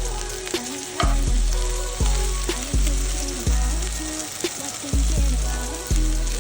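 Chicken tocino frying in a pan, a steady dense sizzle, under background music with a deep, booming bass beat.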